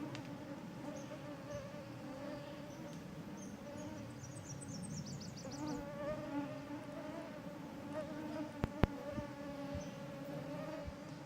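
Mosquitoes whining close around the microphone, a steady wavering hum. A bird briefly sings a rapid run of high notes about four to five seconds in, and there are a couple of sharp clicks near the nine-second mark.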